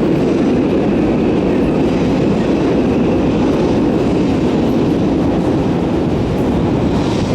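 A train running through the station, a steady loud rumble of steel wheels on the rails with some rail clatter.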